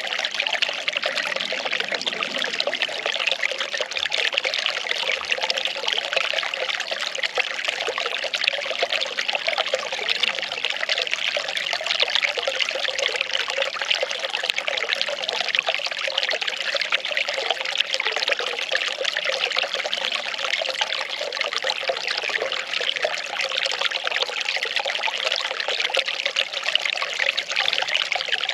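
Well water pouring and trickling in a steady, unbroken splash.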